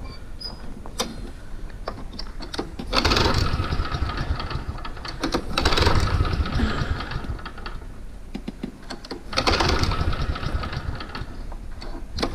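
Engine running with fast, rough pulsing, getting louder in surges three times, each lasting a second or two.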